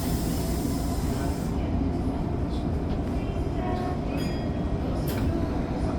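Tokyo Metro 05 series subway train running, heard from inside as a steady low rumble. A hiss fades out about a second and a half in.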